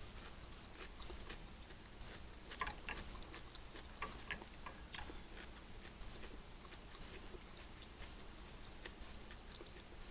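A person chewing food close to the microphone, faint, with scattered small crunches and mouth clicks, a few louder ones a few seconds in.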